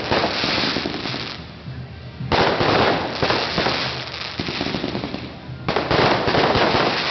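A fireworks bouquet going off in rapid volleys of crackling bangs, coming in waves. One volley is dying away at the start, a fresh barrage bursts in abruptly after about two seconds, and another near the end.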